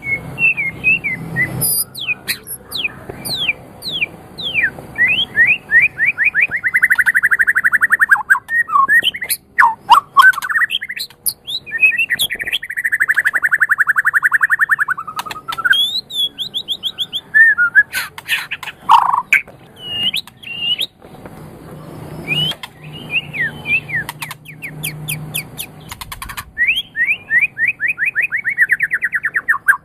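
White-rumped shama (murai batu) singing a varied, loud song: quick runs of sharp repeated notes broken by short pauses, with long, fast trills about a quarter of the way in, again near the middle, and near the end.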